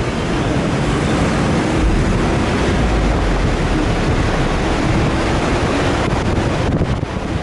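Off-road 4x4 being driven, a steady mix of engine and tyre noise with wind rumbling on the microphone.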